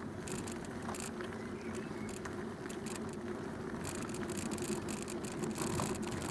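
Bicycle rolling along an unpaved towpath: steady tyre noise with scattered small rattles and clicks.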